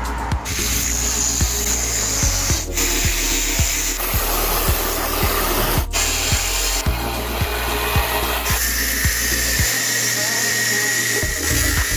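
Electric angle grinder cutting through thin sheet steel, a steady grinding whine that breaks off and resumes abruptly a couple of times. Background music with a steady beat runs underneath.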